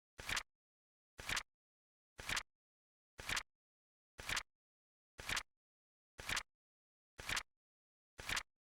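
Flip-clock flap sound effect: a short double click, click-clack, repeated evenly once a second, nine times.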